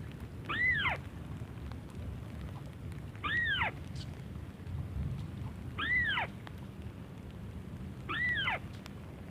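White-browed crake call repeated four times, evenly spaced about every two and a half seconds; each call is a short squeal that rises and then drops away.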